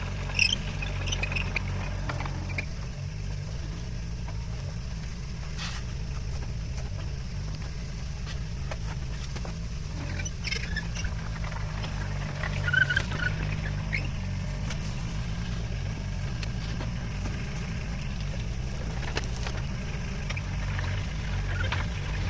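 Komatsu mini excavator's diesel engine running steadily, with scattered short clinks and scrapes, loudest about 13 s in.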